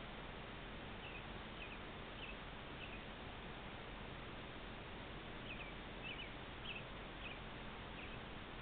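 Steady hiss from a trail camera's microphone, with a bird giving short high chirps in two runs: four about a second in, then five more from about five seconds in, each roughly half a second apart.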